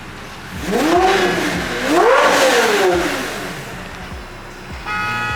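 A car engine revving hard twice, the pitch climbing and falling back with each rev, then a short car horn toot near the end.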